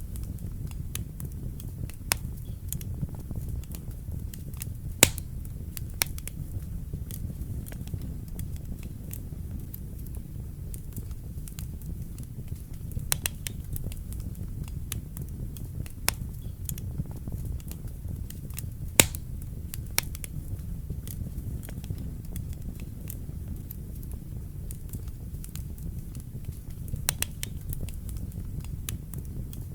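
Wood fire burning in a fireplace: a steady low rumble with irregular crackles and sharp pops, the loudest about 5 and 19 seconds in.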